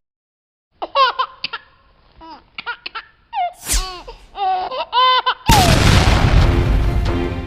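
High-pitched, sped-up cartoon laughter and giggling in short bursts, a sound effect voicing the Lego figures. Midway a rising whoosh lands on a low boom. About two seconds from the end a loud rushing noise bursts in and music starts under it.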